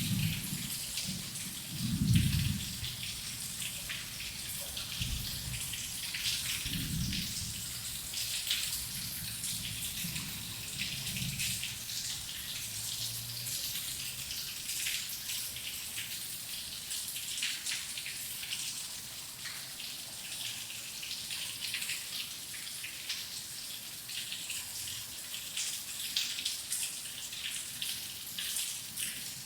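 Steady heavy rain, a dense patter of drops on a surface. Low rumbles come and go in the first dozen seconds, the loudest about two seconds in.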